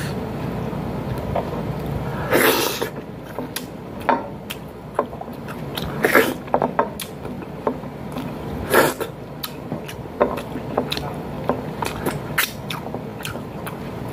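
Close-miked eating by hand: chewing with wet lip smacks and sharp mouth clicks coming irregularly, with a few louder, longer smacks, over a steady low hum.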